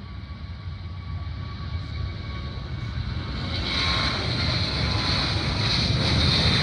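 Airplane engines growing steadily louder as the aircraft draws closer, with a higher hissing edge coming in about halfway through.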